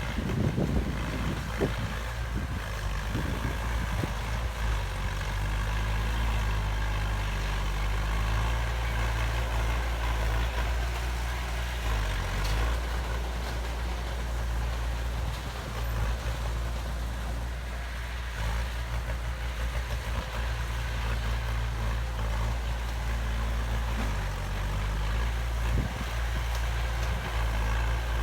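Heavy diesel earthmoving machinery running steadily at low revs, with a few knocks in the first couple of seconds.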